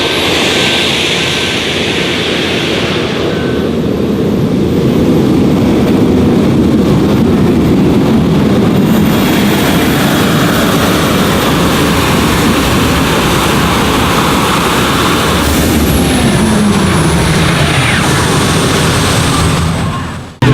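Quad-turbine modified pulling tractor running at full power, a loud jet-like roar with a high whine. About fifteen seconds in the whine falls in pitch as the turbines spool down.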